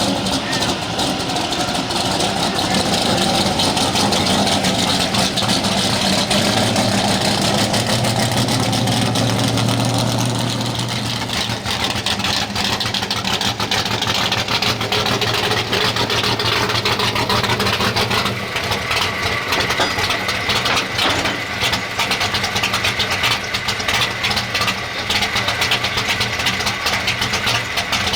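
Pulling truck's engine idling with a steady low drone, with crowd chatter underneath.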